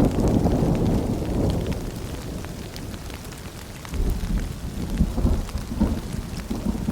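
Rain falling with rolling thunder: one low rumble dies away over the first few seconds, and another starts about four seconds in, over a steady patter of drops.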